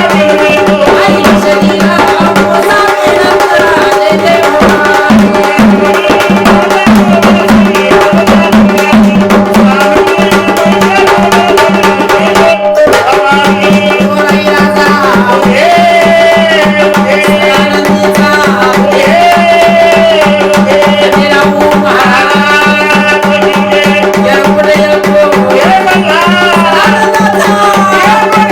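Sambal, the Maharashtrian pair of drums played with sticks, beaten in a fast, continuous rhythm while a voice sings a folk devotional song over a steady drone. The singing rises and glides in long phrases, most plainly in the second half.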